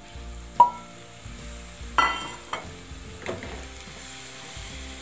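Vegetables sizzling in a hot kadhai as tomato puree is poured in and stirred with a wooden spatula, with a few sharp knocks against the pan, the loudest about half a second in and another about two seconds in.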